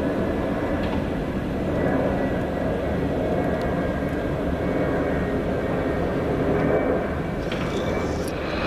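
Train running, a steady rumble of wheels and motors with no distinct events.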